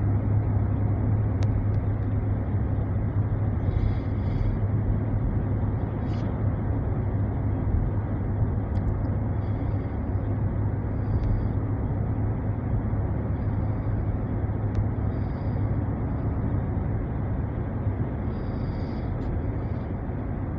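Steady road and engine noise inside a moving SUV's cabin, a constant low hum.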